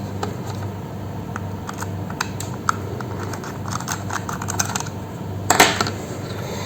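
Scattered light clicks and taps of hands working on a laptop, with a louder brief rustling scrape about five and a half seconds in, over a steady low hum.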